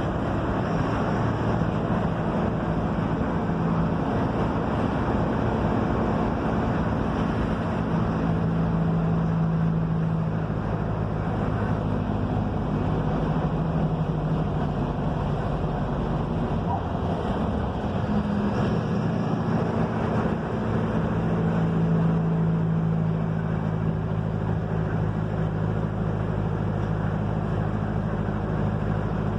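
Diesel engine of a Mercedes-Benz OF-1721 bus running under way with steady road and wind noise. The engine note drops and wavers for a few seconds just past the middle, then picks up again.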